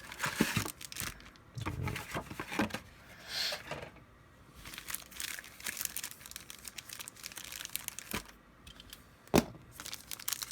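Plastic wrapper of a trading-card pack crinkling and tearing as it is opened, in irregular crackly bursts, with one sharper, louder crackle about nine seconds in.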